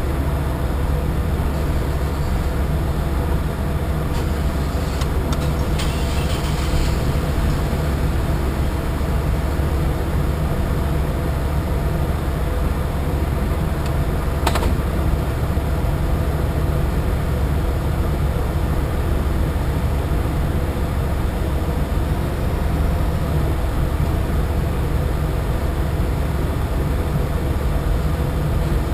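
A boat's engine running steadily with a deep, unchanging hum, and a single sharp click about halfway through.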